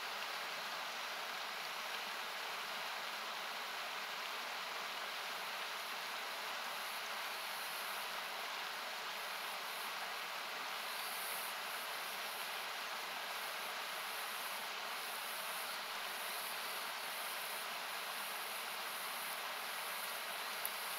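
Steady rushing of a river, a hiss-like noise thinned by equalizer cuts and with its low end removed. A couple of faint pops from the wood campfire near the end.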